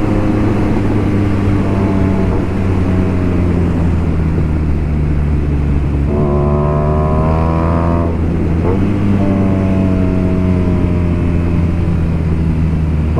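BMW R nineT Racer's boxer twin running under way through a full BOS exhaust with Boxercup muffler. The exhaust note holds steady, climbs as the bike pulls harder about halfway through, then drops at a shift and carries on steady.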